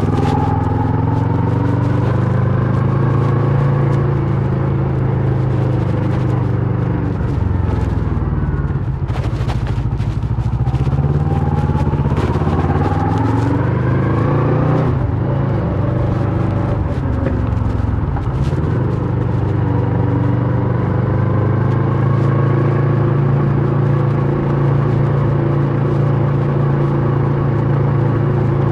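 Kawasaki Versys 650's parallel-twin engine with a MIVV slip-on exhaust, heard while riding. The revs climb through the middle, drop at a gear change about fifteen seconds in, then hold steady at cruise.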